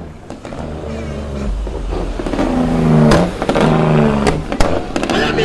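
Vehicle engine, most likely a show truck's, revving: the sound builds to a peak about three seconds in, breaks off briefly, then revs again for about a second over a steady low rumble.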